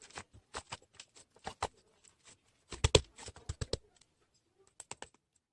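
Irregular sharp taps and clicks like typing, with a quick, louder cluster about three seconds in and a few last taps before they stop.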